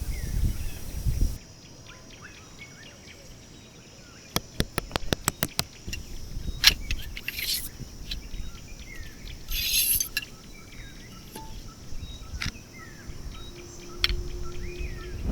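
Small birds chirping faintly, with a quick run of sharp clicks about four to six seconds in and a few short rustles from hands working camping gear. A low wind rumble at the start cuts off suddenly.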